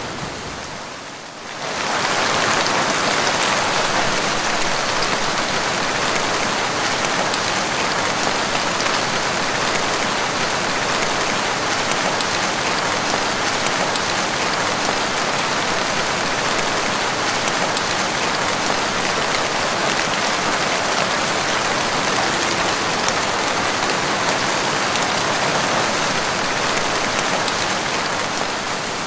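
Heavy rain pouring steadily onto water, a dense even hiss. It comes in after a brief dip in level, about two seconds in.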